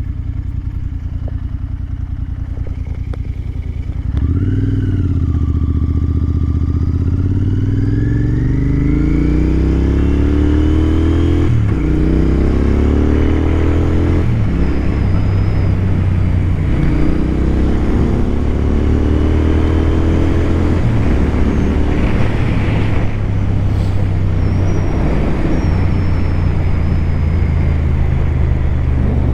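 Royal Enfield Continental GT 650 parallel-twin engine pulling away from about four seconds in. Its pitch rises through the revs and drops sharply at each upshift, three times, with rushing wind noise over the top.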